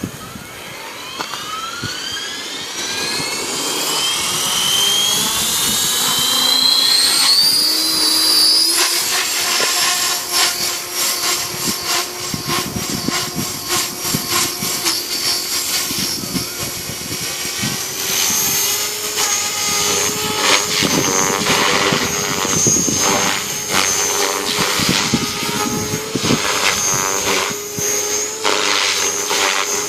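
Electric JR Forza 450 RC helicopter spooling up, its motor and rotor whine rising steadily in pitch over the first nine seconds or so. It then runs at a steady head speed, the sound swelling and fading as the rotor loads up in flight.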